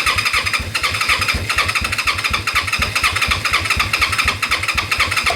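Electric starter cranking over a 1995 Honda Magna 250 V-twin engine for a compression test on the rear cylinder: a steady starter whine over rapid, even pulses as the engine turns over without firing. It stops near the end.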